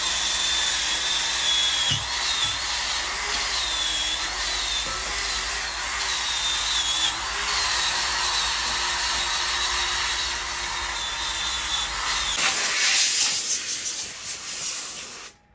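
A power tool running under load, its high whine dipping and recovering again and again over a steady rushing noise. The sound changes about three-quarters of the way through and cuts off abruptly near the end.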